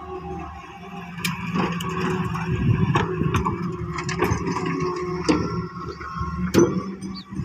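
Hitachi excavator's diesel engine running steadily under work, with sharp metallic clanks and knocks about every second as it digs and loads a trolley.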